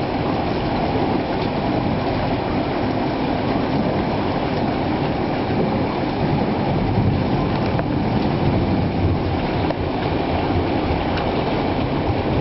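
Steady low rumbling noise of a thunderstorm, unbroken, with no single loud clap.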